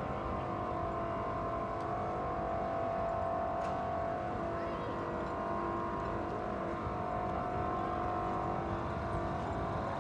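An engine running steadily at an even speed, with a constant hum of several steady tones.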